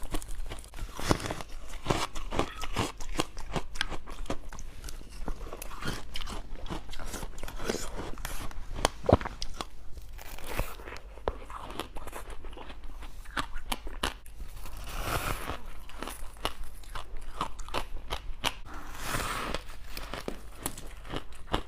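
A person biting and chewing crunchy white frost topped with passion fruit syrup: a continuous run of crisp crunches and crackles, with a louder bite every second or so.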